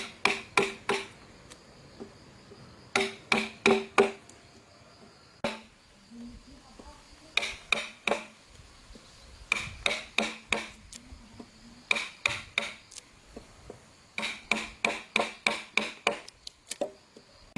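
Hammer driving nails into wood: quick runs of four to ten ringing blows with short pauses between them.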